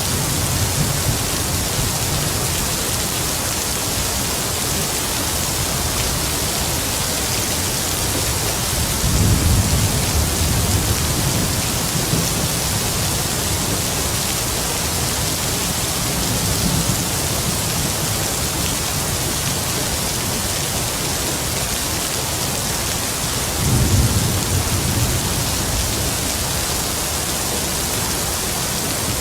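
Heavy rain falling steadily, with distant thunder rumbling low twice, about nine seconds in and again near the end.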